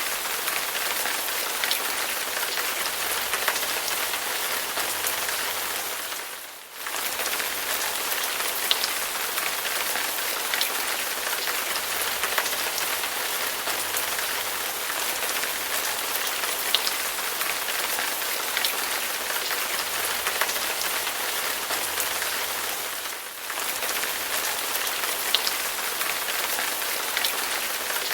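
Steady rain hiss with scattered individual drop hits, the level dipping sharply twice.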